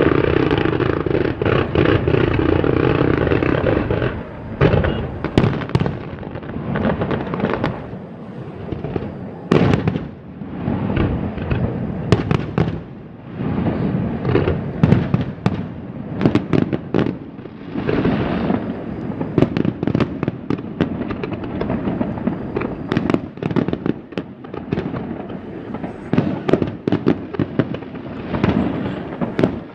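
Aerial fireworks display: a dense barrage of crackling for the first few seconds, then shell bursts and crackles going off irregularly, several each second.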